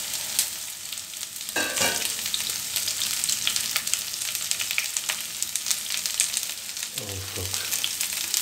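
Cut okra sizzling in hot oil over high heat, having just gone into the pan onto crackled cumin seeds: a steady hiss full of fine crackles, with two brief louder sounds, about two seconds in and near the end.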